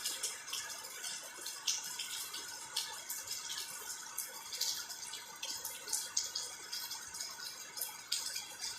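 Steady rain falling, with frequent irregular sharp drips and splashes over a continuous hiss, as drops land on water, trees and the ground.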